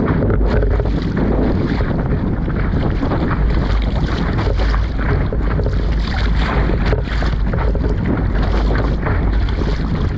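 Strong wind buffeting the microphone: a loud, steady, rushing rumble with no let-up.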